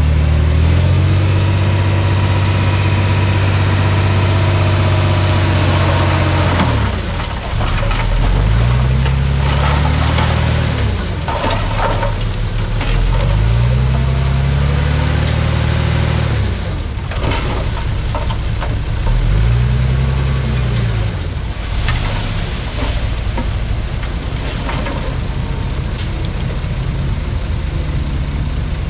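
Heavy diesel engine of earth-moving machinery running at high revs for about six seconds, then dropping and climbing back up three times in swells a few seconds long, as it works under repeated load.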